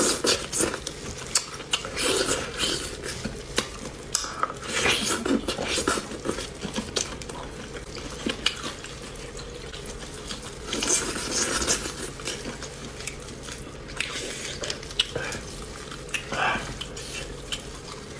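Close-miked eating of beef bone marrow: irregular sucking and slurping of marrow, mixed with sharp clinks against the dish.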